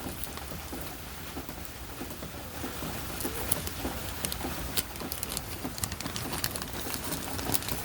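Steady rain pattering, with scattered sharp drip-like taps throughout.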